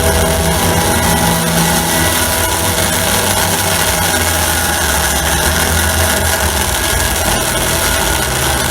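Harsh noise performance: a loud, steady wall of distorted electronic noise with a heavy low rumble and a few held tones under it.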